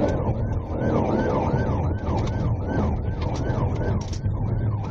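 Police car siren in fast yelp mode, a wail rising and falling about three times a second, over a steady low rumble.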